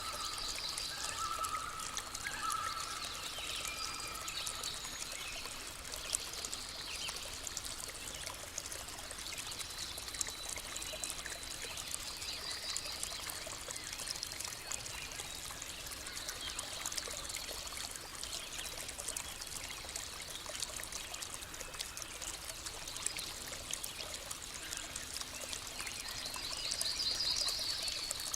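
Small stream trickling and flowing steadily, with birds chirping over it. Short high trills come about a second in, near the middle and near the end.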